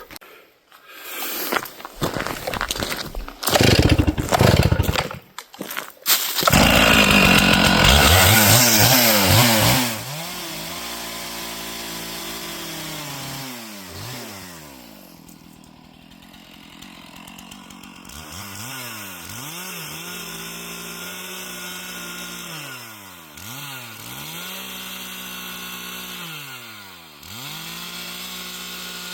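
Loud knocks and clatter for the first few seconds, then a gasoline chainsaw running at high revs while cutting a fallen log into firewood. Its pitch dips and recovers several times.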